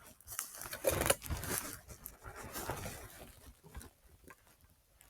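Irregular crunching and rustling, the footsteps and clothing of someone walking through dry forest litter while carrying a running recorder. It is busiest in the first couple of seconds and sparser after.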